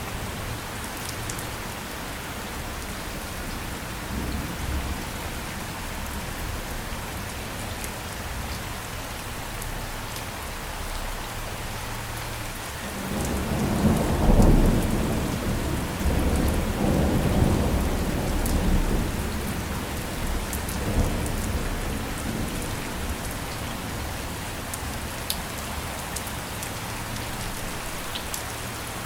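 Steady rain falling, with a long roll of thunder that builds about halfway through, peaks within a couple of seconds and rumbles away over several more.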